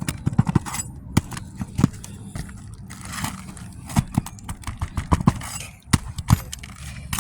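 Hand tools knocking and scraping on fiberglass asphalt roof shingles as a damaged shingle is pried loose: a string of irregular sharp knocks and clicks.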